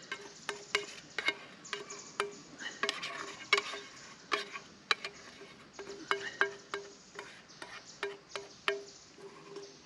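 A utensil clinking and scraping against a food container as warmed-up curry is spooned out onto rice: a run of sharp, irregular clicks and taps.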